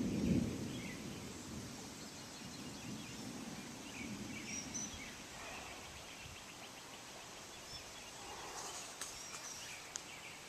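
Outdoor ambience with faint birds chirping off and on. Under it is a low rumble, loudest at the start and fading over the first couple of seconds. A sharp click comes near the end.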